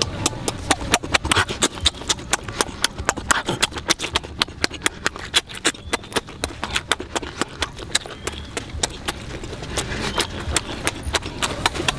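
Close-miked eating with the mouth open: rapid wet lip-smacking and chewing clicks, about five a second, as a mouthful of shrimp salad is chewed.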